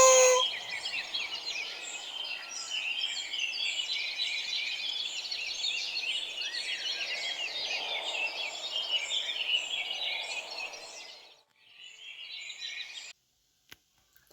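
Many small birds chirping and twittering together, a dense chorus of quick high calls. It fades out about eleven seconds in, comes back briefly, then stops abruptly.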